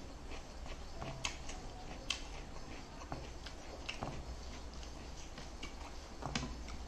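Eating sounds close to the microphone: a person chewing food, with scattered, irregular sharp clicks of the mouth at work.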